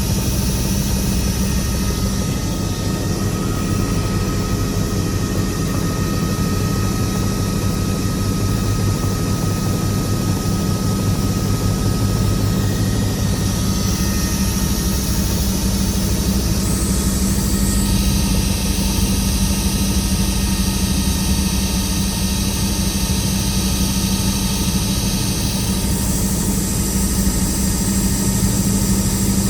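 Helicopter's turbine engine and rotor running steadily, heard from inside the cabin as a constant loud hum with a faint high whine.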